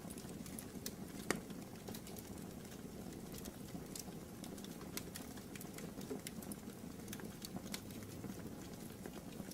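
Wood fire crackling in a fireplace: a steady low rush of flames with scattered sharp pops, one louder pop about a second in.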